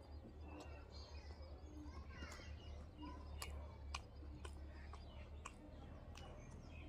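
Faint sounds of someone eating by hand: chewing and sharp mouth clicks, with a few faint bird chirps and a low steady hum behind.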